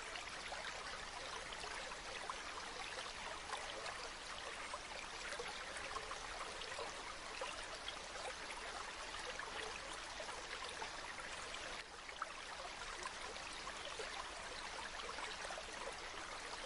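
Steady babbling of a shallow stream, a dense, even rush of water dotted with small splashes and trickles, with a brief slight drop in level about twelve seconds in.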